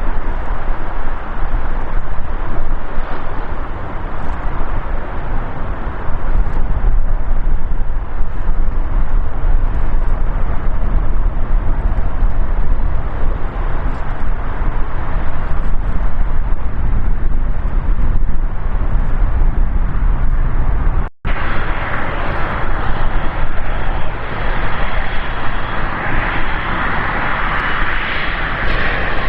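Boeing 777 freighter's jet engines, a loud, steady rumble. After a sudden cut about two-thirds through, it becomes a brighter, hissing jet whine.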